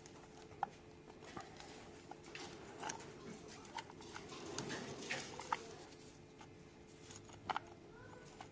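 Scattered clicks and light metallic knocks of starter motor parts being handled and fitted together, the sharpest about half a second, five and a half and seven and a half seconds in, over a faint steady hum.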